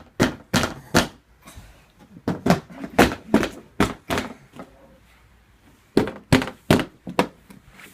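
A small child banging on a box, a quick run of thunks about three a second that stops for about a second past the middle, then starts again.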